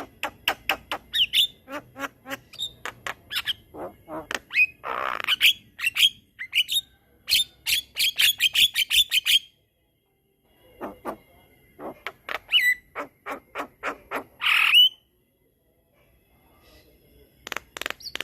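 Javan myna singing a long chattering run of rapid clicks and short whistled notes, broken by two longer harsh squawks and two brief pauses.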